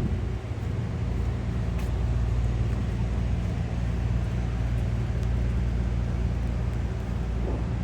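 Steady low rumble of city street ambience with distant traffic.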